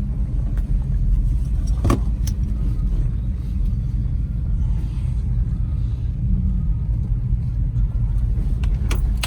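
Pickup truck on the move, heard from inside the cab: the engine and road noise make a steady low rumble. One click about two seconds in.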